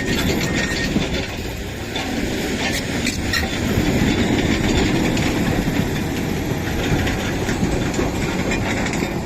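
Heavy vehicle running with a steady low rumble and some rattling.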